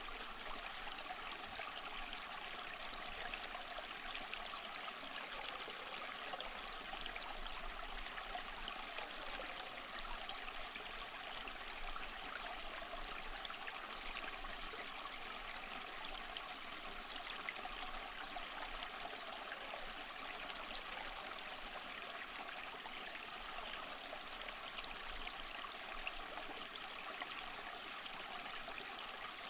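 Waterfall: water rushing steadily without a break, an even rush heard mostly in the upper range with little low rumble.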